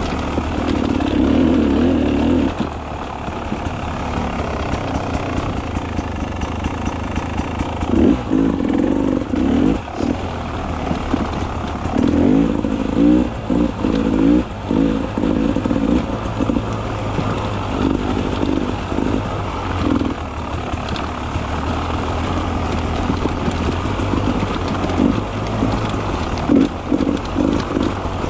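Beta 300 RR two-stroke enduro motorcycle engine running on a trail ride, revving up and dropping back again and again in short bursts as the throttle is worked on and off.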